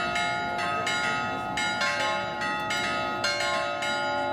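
Greek Orthodox church bells ringing to call the village to the Easter service. Several bells are struck in a quick, uneven rhythm of about three strikes a second, their tones ringing on under each new strike.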